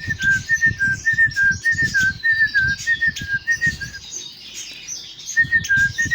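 Whistled call imitating a great tit: short clear notes alternating between two pitches, about four a second, breaking off about four seconds in and starting again a second later. Small cage birds chirp high in the background.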